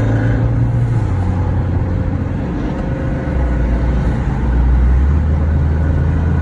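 Car engines running steadily, a low-pitched engine note that gets somewhat louder about halfway through.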